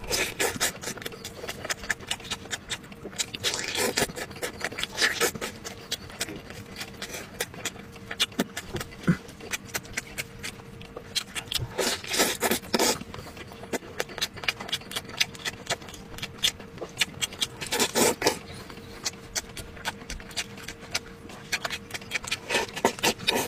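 Close-miked eating: wet chewing and lip-smacking with many small mouth clicks as chicken on the bone is bitten and torn apart with gloved hands. Several louder bursts of biting and sucking stand out, over a faint steady hum.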